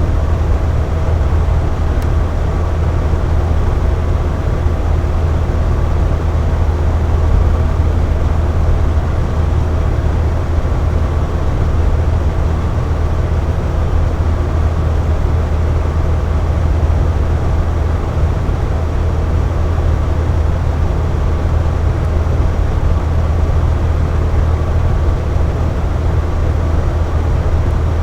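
Box fan running steadily: an even, low whooshing rush of moving air with a faint steady hum from the motor.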